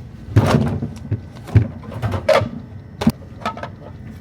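Rummaging in a refrigerator: things being slid and knocked about on the shelves and drawers, a series of scrapes and sharp knocks with smaller clicks near the end.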